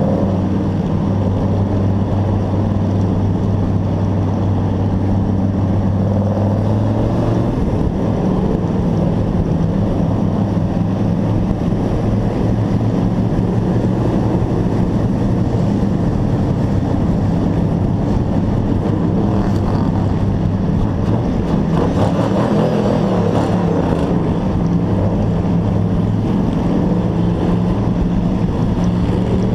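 Race truck engine running hard under load, heard from an onboard camera as a steady drone. Its note changes about seven and a half seconds in, then holds steady again.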